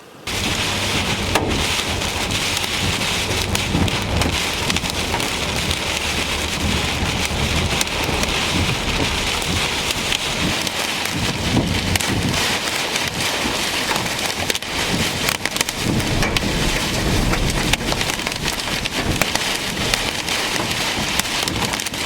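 Heavy storm rain pelting down hard and steadily, with many sharp individual hits throughout; it starts abruptly just after the beginning.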